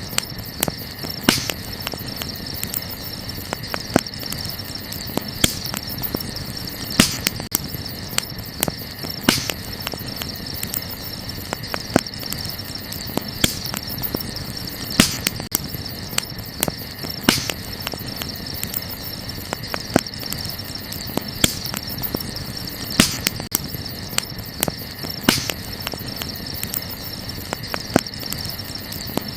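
Wood fire crackling, with sharp pops every second or two, over steady high chirring of night insects such as crickets.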